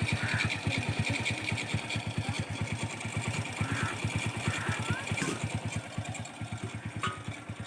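Bajaj CT 100's single-cylinder four-stroke engine idling steadily, its exhaust beating evenly at about ten pulses a second, while it runs during an engine carbon-cleaning (decarbonising) treatment.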